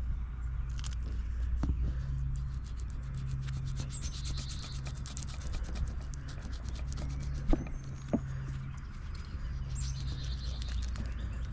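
Excess tire-plug material being cut off flush with the tread, soft rubbing and scraping with a couple of sharp clicks, over a steady low hum.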